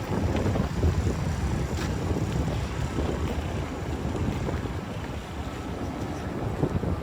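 Gusting wind buffeting the microphone, a continuous low rumble that swells and eases.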